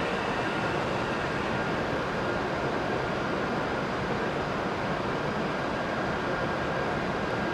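Steady noise of an E7-series Hokuriku Shinkansen train: an even rumble and hiss with a faint high whine.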